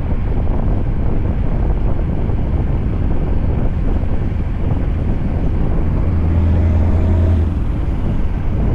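Scania V8 truck running on the road: a steady low engine drone mixed with wind and road noise. The low engine hum grows stronger for about a second and a half, about six seconds in.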